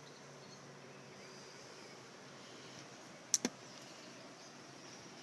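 Faint steady background hiss, broken a little past three seconds in by two sharp clicks in quick succession.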